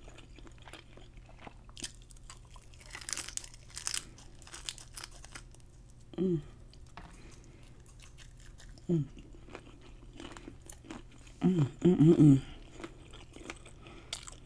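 Close-miked chewing and crunching of crisp batter-fried shrimp, with a crisp bite about three seconds in. Short hums from the eater break in twice in the middle and more loudly near the end.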